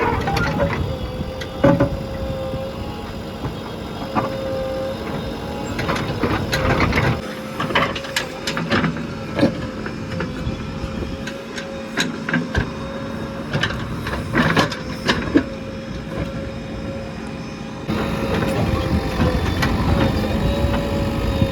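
Diesel engine of a JCB 3DX backhoe loader running steadily with a constant whine, while loading. Repeated sharp clanks and knocks run throughout, and the low engine rumble grows heavier near the end.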